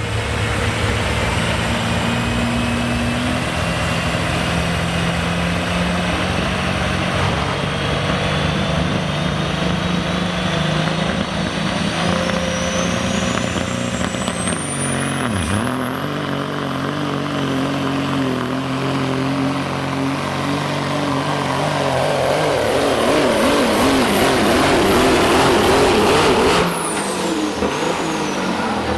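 Diesel semi truck pulling a sled under full load. The engine runs hard under a turbocharger whine that climbs steadily for about fifteen seconds and then holds at a very high pitch. The engine note dips briefly about halfway, and the sound drops away suddenly near the end.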